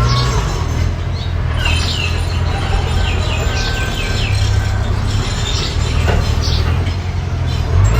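Steady low rumble of a running engine, with a run of quick descending bird chirps over it between about one and a half and three seconds in, and a few more later.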